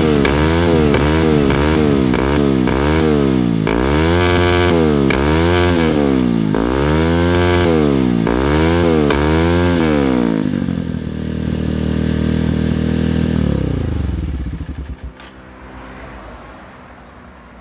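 Bajaj Pulsar 220's single-cylinder engine through an aftermarket SC Project exhaust, revved in repeated throttle blips for about ten seconds to make the exhaust spit flames. It then drops to a steady idle and cuts off about fourteen seconds in.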